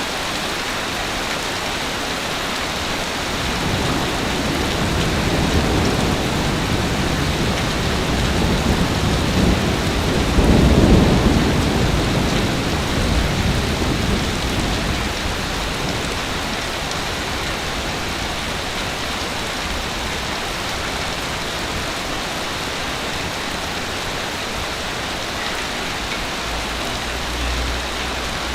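Ocean waves on a beach: a steady wash of surf, with one bigger wave building a few seconds in, breaking loudest near the middle and then drawing back.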